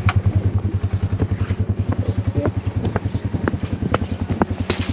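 A small vehicle's engine idling with an even, rapid putter of about eleven pulses a second, with a few light clicks and rattles over it.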